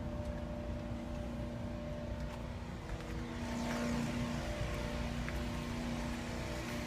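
A vehicle engine running steadily at idle with a low, even hum. About three and a half seconds in, a broader hiss swells up over it.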